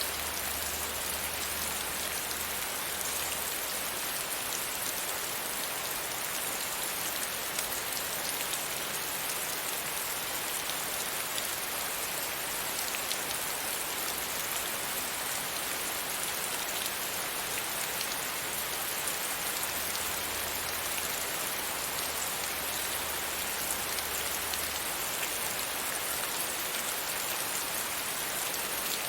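Steady rain pattering on a window pane: an even hiss of rain dotted with the small ticks of single drops. A faint low rumble comes in near the start and again about two-thirds of the way through.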